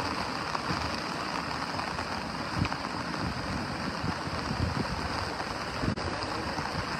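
Steady heavy rain falling and hitting wet ground, a continuous hiss, with a few dull low thumps mixed in.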